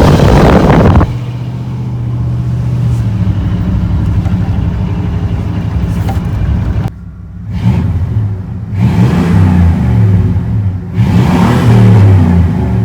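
Chevy Z71 pickup's engine and Flowmaster exhaust running on the road: a loud rush in the first second, then a steady drone that rises and falls in pitch from about halfway through as the truck accelerates and lets off.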